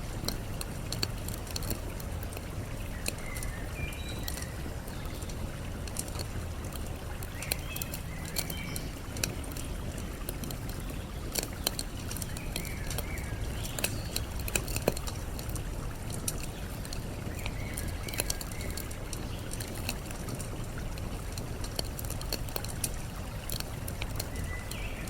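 Wood fire crackling with frequent sharp pops over a steady rush of flowing water, while small birds chirp every few seconds.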